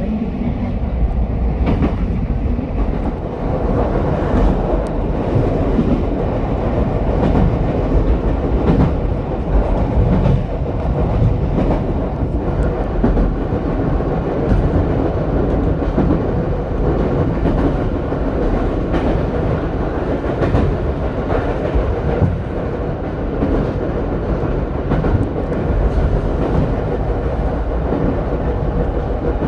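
Ichibata Electric Railway 7000 series electric train running, heard from on board: a steady rumble of wheels on rail with irregular clicks from rail joints, and a faint steady tone in the second half.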